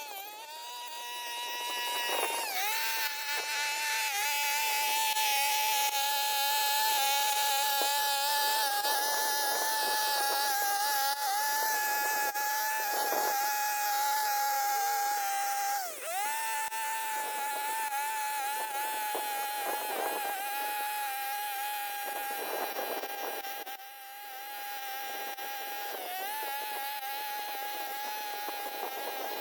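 A small, high-revving motor whining at a steady high pitch. It dips briefly in pitch and picks up again four times.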